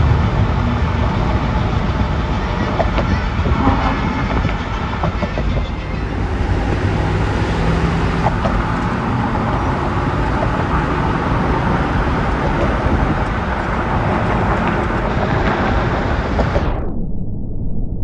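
Strong wind blowing as a loud, steady rush with a heavy low rumble. About a second before the end, the hiss is suddenly cut away, leaving only a dull, muffled rumble.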